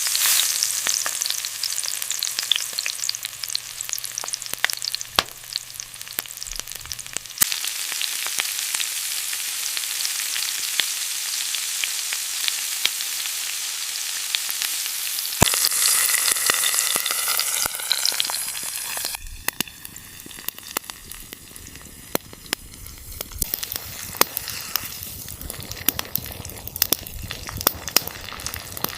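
Food frying and sizzling, with scattered sharp crackles. The sizzle grows louder for a few seconds a little past halfway, then settles to a quieter sizzle and crackle.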